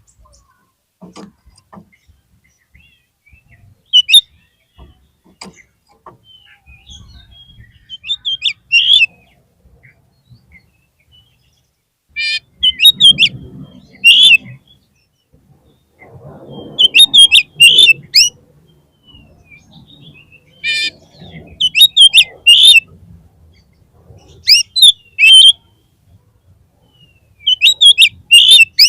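Oriental magpie-robin (kacer) calling in short, loud bursts of sharp notes that sweep up and down, a cluster every few seconds.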